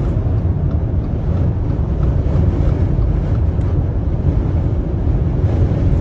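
Strong dust-storm wind buffeting a moving car, heard from inside the cabin as a loud, steady low rumble mixed with road noise.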